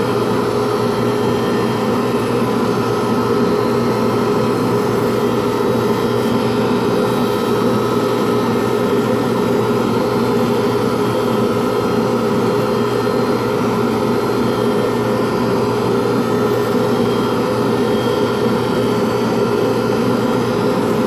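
Pen lathe running steadily as the spinning pen blank is wet-sanded with 240-grit sandpaper: a constant motor hum with an even hiss of the paper on the blank.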